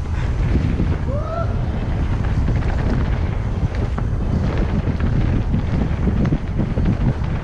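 Mountain bike running fast down a rough trail: steady wind buffeting the microphone, with the bike rattling and its tyres clattering over the ground.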